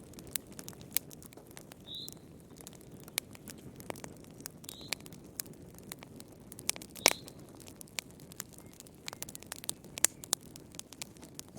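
Wood fire in a fireplace crackling, with irregular sharp pops and snaps over a soft low rush of flame. One louder pop comes about seven seconds in.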